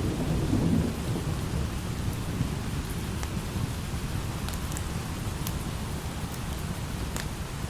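Light rain falling steadily, with a low thunder rumble in the first second or so that fades away. Scattered sharp ticks sound over the rain.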